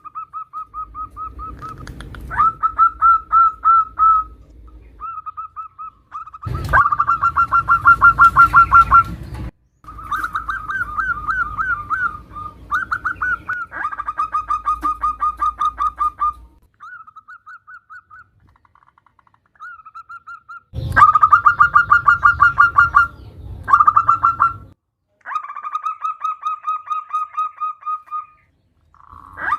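Zebra dove (perkutut) calling in repeated phrases of rapid, fast-pulsed cooing notes, each phrase lasting one to three seconds with short breaks between. The uploader presents these as a female calling a male.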